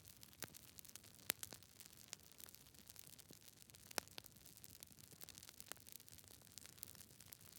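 Campfire of burning wood crackling: quiet, irregular sharp pops and snaps over a faint hiss, with a couple of louder pops about a second in and near the middle.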